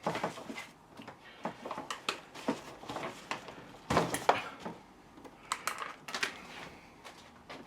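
Hands and pry tools working on the plastic parts of a jammed telescopic suitcase handle: irregular clicks, taps and short scrapes, the loudest cluster about four seconds in.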